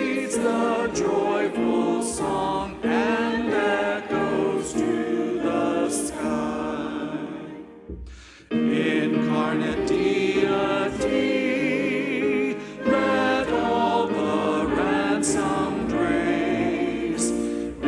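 Choir and congregation singing a hymn in chords. The singing fades out about eight seconds in, and after half a second's pause it starts again, as between verses.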